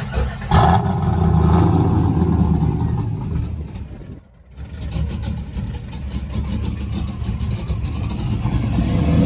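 A loud vehicle engine running and revving, dipping briefly about four seconds in before picking back up.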